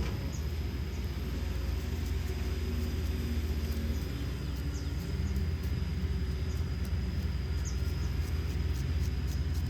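Kobelco SK210LC excavator's Hino J05E-TG turbocharged four-cylinder diesel engine running at a steady speed, a continuous low rumble.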